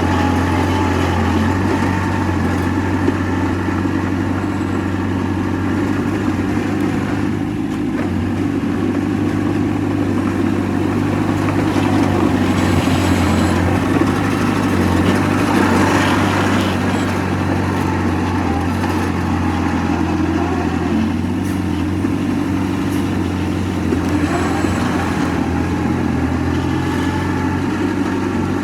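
Heavy diesel engine of earthmoving machinery running steadily, with a louder, rougher stretch around the middle.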